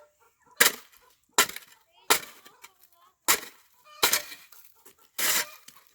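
A series of six sharp knocks or impacts, unevenly spaced, the last one lasting a little longer than the others.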